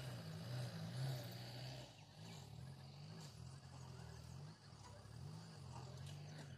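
Diesel engine of an excavator running, its low note dipping and rising in pitch as the load changes.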